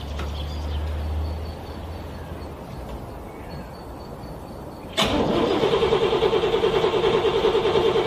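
A car's starter cranking a cold engine over. It starts suddenly about five seconds in as a steady pulsing churn, about six pulses a second, that does not catch. Before it, a low rumble dies away.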